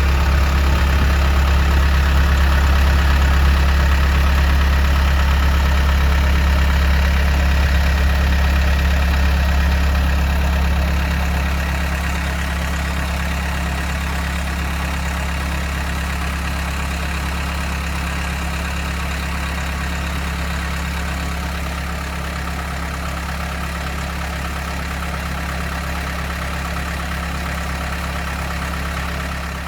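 CASE 445 skid steer's diesel engine idling steadily with a deep, even hum; it gets somewhat quieter about a third of the way in.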